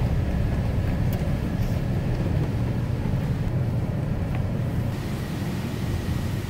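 Truck driving slowly along a rough forest road, with a steady low rumble of engine and tyres that eases off near the end.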